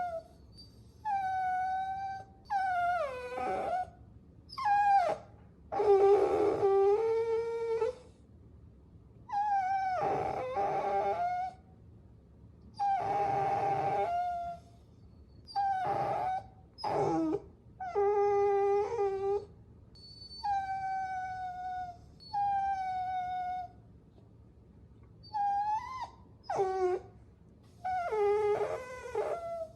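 Puppy whining: a string of high-pitched whines, each a second or two long, with short pauses between them, some sliding down in pitch at the end.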